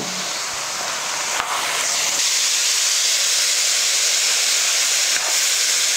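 Chicken, vegetable and mushroom stir-fry sizzling steadily in a pan, getting louder about two seconds in. The sizzle means butter and moisture are still in the pan: once it dies away the pan is dry and the heat goes off.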